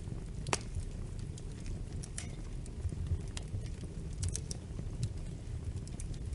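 Wood fire crackling: irregular sharp pops and snaps, the loudest about half a second in, over a low steady rumble.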